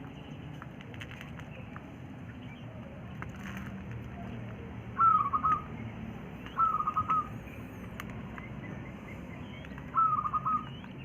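A quail calling three times, each call a short, quick stuttering run of high notes.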